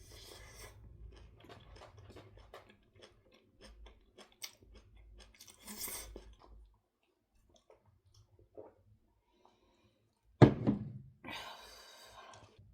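Close-up eating sounds: chewing and crunching with many small clicks. About ten seconds in, a sharp loud knock is followed by a short burst of noise.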